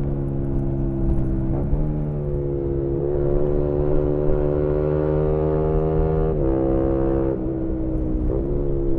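2018 Yamaha MT-125's single-cylinder engine through a GPR aftermarket exhaust, heard onboard while riding under power. The pitch climbs slowly and steps sharply up or down a few times, about a second and a half in and again near six and a half and eight seconds.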